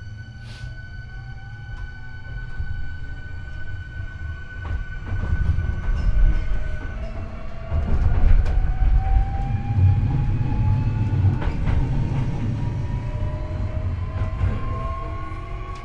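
Hankyu 8300 series electric train accelerating, heard from the floor over the bogie. The Toyo IGBT-VVVF inverter and traction motors whine in several slowly rising tones over a growing rumble of wheels on rail, with a few rail-joint clicks. The recordist calls this an abnormal-sounding bogie, on a car whose inverter modulates unusually high.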